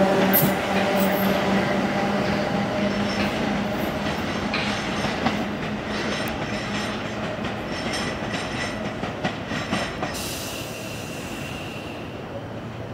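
A 1938 Tube Stock electric train pulling away and receding. Its traction motors whine at first, then its wheels click over rail joints and points, the whole growing steadily fainter, with a thin squeal near the end.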